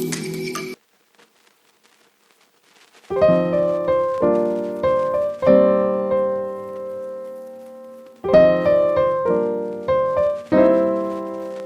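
Background piano music: after a short silence, notes and chords begin about three seconds in, each ringing out and fading, with a new phrase starting near the two-thirds mark.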